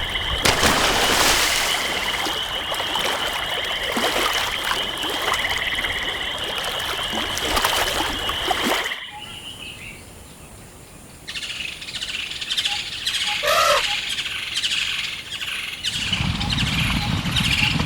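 Forest ambience of birds chirping and calling over a steady high whine. About halfway through the whine cuts out to a quieter stretch where birds call again, and a low rumble comes in near the end.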